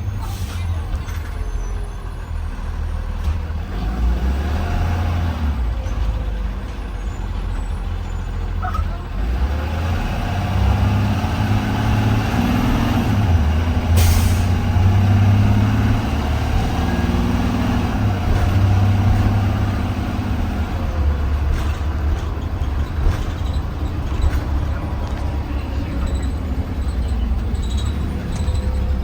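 2020 Blue Bird Vision school bus driving, heard from inside the cabin: a steady low engine rumble with road noise. The engine note rises and strengthens through the middle as the bus pulls ahead, with a brief sharp noise about halfway through.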